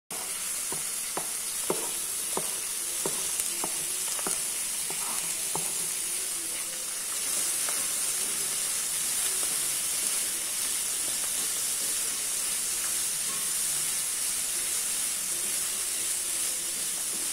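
Chopped French beans sizzling in hot oil in a metal kadai as they are stirred with a wooden spatula. Over the first five seconds or so the spatula knocks against the pan in a string of light taps about twice a second; after that the sizzle goes on steadily.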